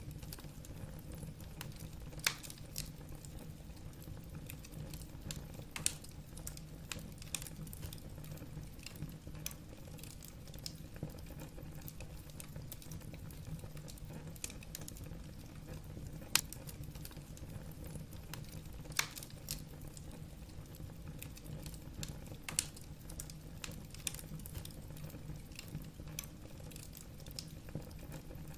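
Wood fire burning in a fireplace: irregular crackling, a few sharp snaps each second with louder pops here and there, over a steady low rumble of the flames.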